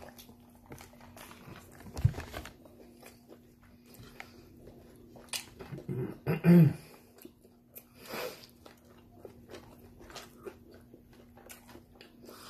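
A person chewing and biting fried chicken and fries, with many small wet clicks and crunches. There is a knock about two seconds in and a short low voiced hum about halfway, the loudest moment.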